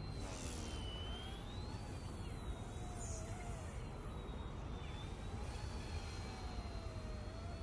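E110 Sentry mini RC helicopter in flight, its motors giving a thin high whine that slowly drifts up and down in pitch over a steady low rumble.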